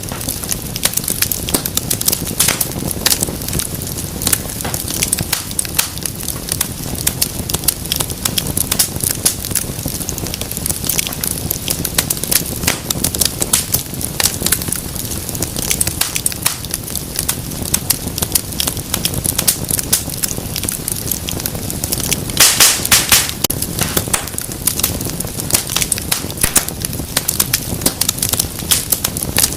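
Wood fire in a fireplace crackling, with a dense run of small snaps and pops and a louder cluster of sharp pops about three-quarters of the way through.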